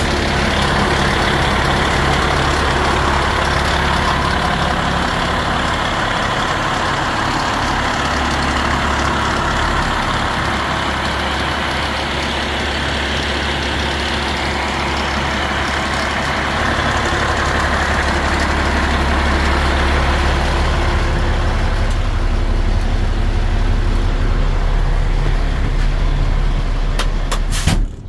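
Diesel engine of a 2017 Mack Granite GU4 packer garbage truck running steadily with a heavy low drone and a broad mechanical rush over it. It is cut off abruptly right at the end.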